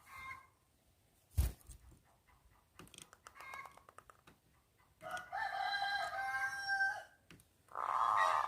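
A rooster crows once, a held call of about two seconds past the middle. It is the loudest sound here. Before it come short runs of quick notes, the cooing of zebra doves, and a single sharp click.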